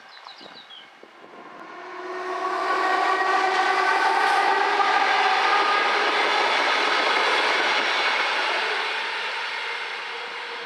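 A train passing close by. It grows loud about two seconds in, with several steady whining tones over the running noise, and eases off near the end.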